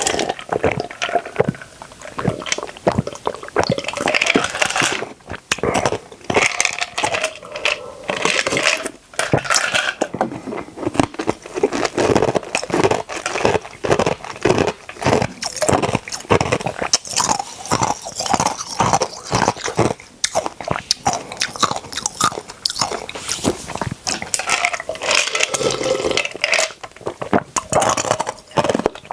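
Close-miked chewing and crunching of food: many crisp bites and chews, several a second, with a few short pauses.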